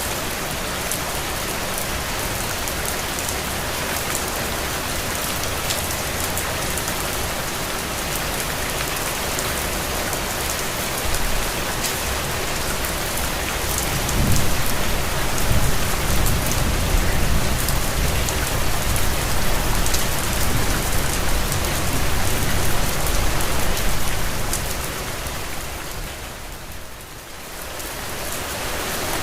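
Steady rain falling: a dense, even hiss scattered with the ticks of single drops. About halfway through, a low rumble swells for some ten seconds, and near the end the sound briefly dips before returning.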